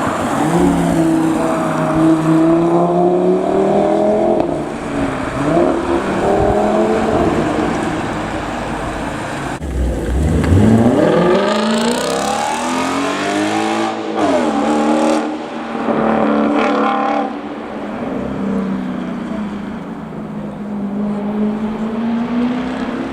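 Car engines revving and accelerating hard, the engine note sweeping up and down. A steep climb in pitch comes about ten seconds in and falls away a few seconds later.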